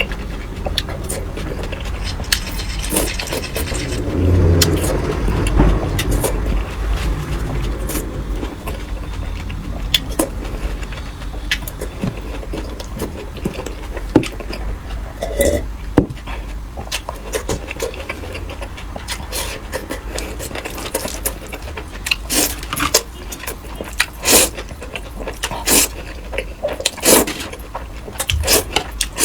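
Close-miked eating sounds: irregular chewing crackles and clicks, with scraping and utensil clinks, coming thicker near the end, over a steady low rumble.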